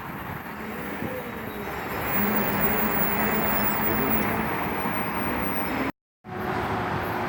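A passing train: steady noise that grows louder over the first two seconds and holds, with a faint steady hum. It cuts out completely for a moment about six seconds in.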